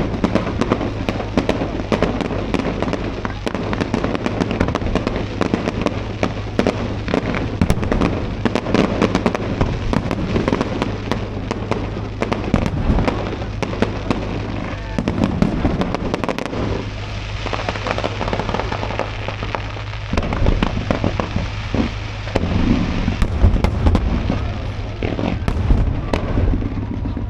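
Fireworks display: a dense, continuous run of sharp crackles and bangs, many each second, with heavier low booms in the last several seconds.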